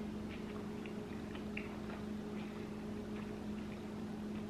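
Faint, irregular crunching of someone chewing flaky puff-pastry crust with the mouth closed, over a steady low hum.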